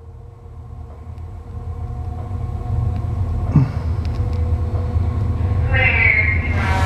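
Approaching freight train led by three diesel-electric locomotives, a low engine rumble growing steadily louder as it nears. A short thump comes a little past halfway, and a higher tone joins near the end.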